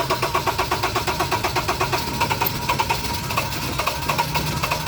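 Honda BR-V's four-cylinder petrol engine being started after a tune-up: a fast, even chugging for about two seconds, then it settles into an uneven idle with scattered ticks. It then runs smoothly.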